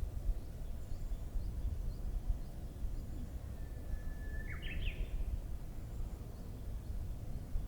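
A Japanese bush warbler (uguisu) sings one phrase about the middle: a long, steady whistle followed by a quick, warbling flourish that jumps higher. A steady low rumble runs underneath, and faint high chirps of other small birds come now and then.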